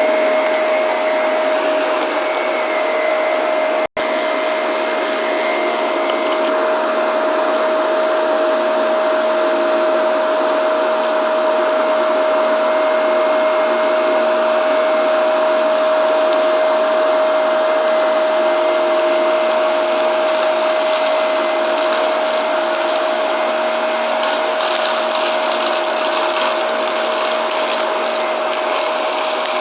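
Shark vacuum cleaner running steadily, a constant motor whine over the rush of air, cutting out for an instant about four seconds in.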